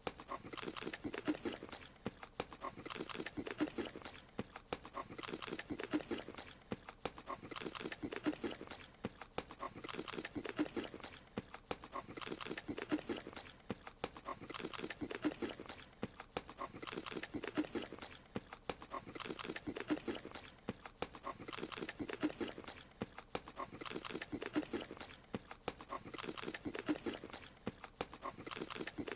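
Looped cartoon eating sound of a creature munching a strawberry: a burst of quick chewing clicks that repeats about every two and a half seconds.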